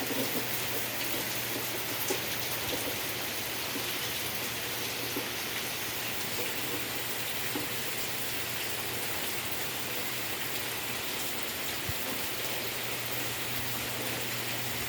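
Heavy tropical rain falling steadily, a dense even hiss with scattered drops striking surfaces.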